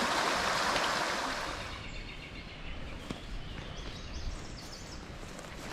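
Creek water rushing over rocks, a loud even rush that drops away about two seconds in. After it comes quieter outdoor ambience with faint bird chirps.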